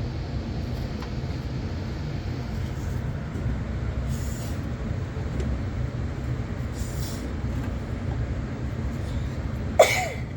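A fan running with a steady low rumble, with a few brief rustles and a short, sharp sound near the end.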